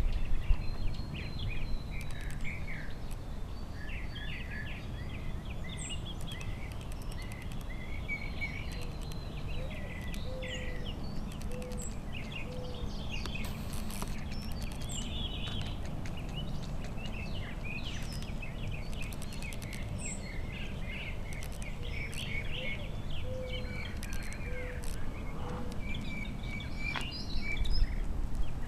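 Several wild birds chirping and trilling, many short calls overlapping, over a steady low outdoor rumble.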